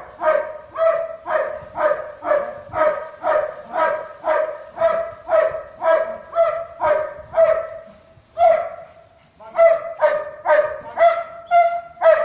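German Shepherd barking in a steady run of about two barks a second, with a short break just past the middle before the barking resumes.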